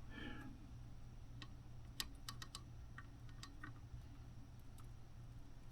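Soldering iron tip and solder touching a circuit board's joints: faint, irregular light clicks and ticks over a steady low electrical hum.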